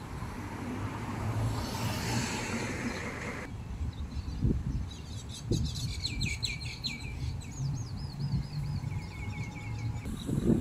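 Small birds chirping in quick repeated series of high calls and trills over a low rumble. The first few seconds hold a steady hiss of road traffic, which cuts off suddenly.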